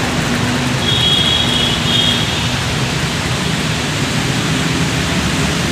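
Steady hiss of heavy rain and water, with a vehicle engine running underneath. Two short high-pitched tones come about one and two seconds in.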